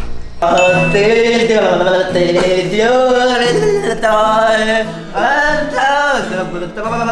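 A song with a man singing long, wavering held notes over instrumental backing, starting about half a second in.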